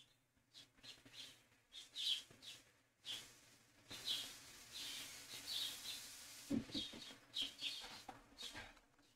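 Faint bird chirps: short, irregular high calls.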